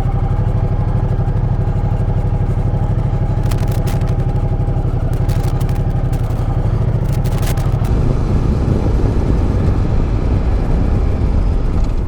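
Ducati Multistrada 1200's V-twin engine running while the motorcycle is ridden, a steady engine note that turns rougher and louder about eight seconds in. A few sharp clicks come through in the middle.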